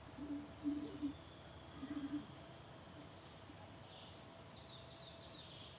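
Birds calling outdoors: two low calls in the first two seconds, then repeated short, high, falling chirps from about three and a half seconds in.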